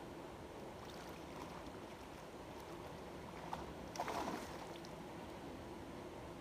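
Steady rush of flowing creek water at a spillway, with a short, noisy burst about four seconds in.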